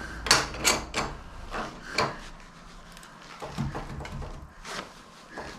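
Metal clanks and clicks from working a bar clamp on hydraulic quick-connect couplers that are stuck tight, which the owner puts down to ice: about four sharp knocks in the first two seconds, then lighter clicks.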